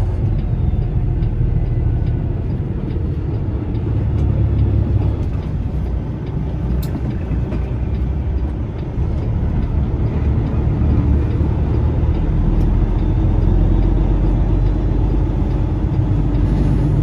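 Peterbilt semi truck's diesel engine running steadily with a deep rumble as the rig moves slowly.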